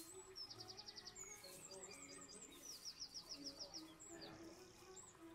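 Faint bird song: rapid trills of high notes, about a second in and again past the middle, with short down-slurred whistled phrases between them.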